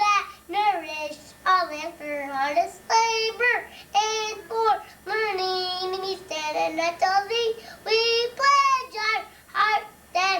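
A four-year-old boy singing solo and unaccompanied, a high child's voice moving through short sung phrases of a school fight song.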